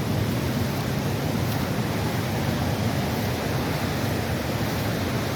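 Steady rushing of a flooded creek running high after rain.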